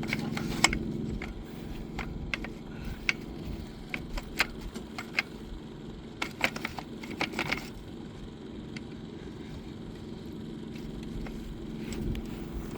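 Scattered light clicks and metallic rattles, most of them in the first eight seconds, over a steady low engine hum.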